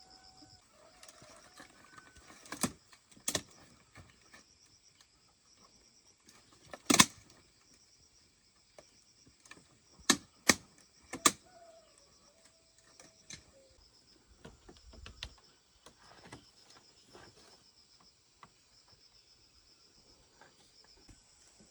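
Several sharp knocks, one around the middle the loudest and three in quick succession a little after, over a steady background of insects chirping. A faint short call is heard twice.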